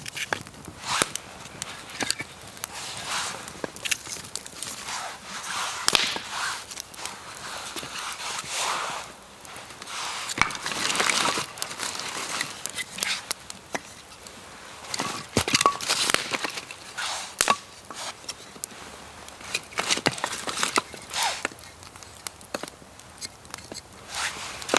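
Irregular cracks, knocks and rustling of dry wood and forest litter being handled, with a few sharper snaps.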